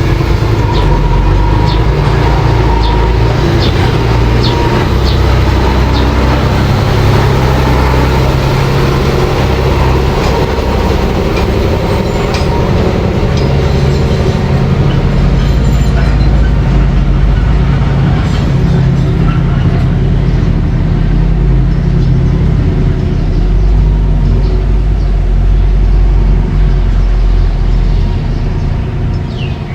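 Mini bulldozer's engine running steadily, with short metallic clanks through the first half.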